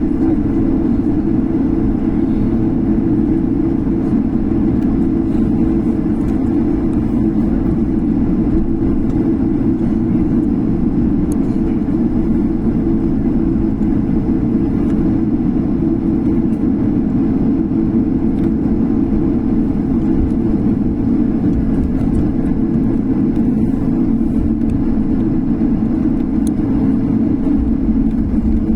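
Jet airliner's engines running with a steady, even drone that neither rises nor falls.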